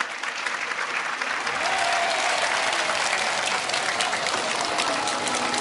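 Audience applauding: a steady, dense clapping.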